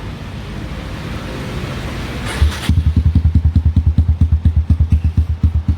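Kawasaki D-Tracker 150's single-cylinder four-stroke engine, breathing through an aftermarket full-system racing exhaust, starting about two and a half seconds in and settling straight into a steady, evenly pulsing idle.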